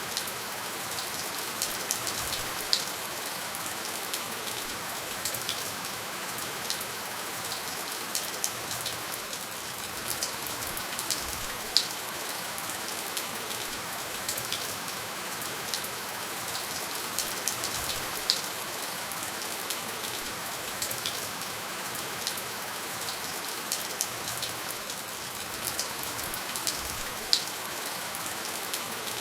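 Steady rainfall with no thunder: an even hiss of rain, with scattered individual drops ticking close by and a few louder single drops standing out.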